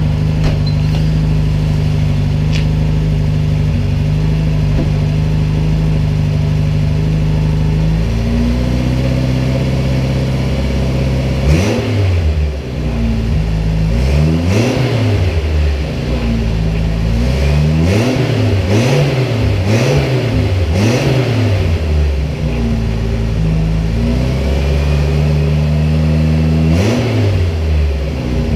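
Renault 4's four-cylinder engine heard at its exhaust with a new silencer: idling steadily, then a little higher, then revved repeatedly in neutral from about twelve seconds in, a series of short blips that rise and fall in pitch.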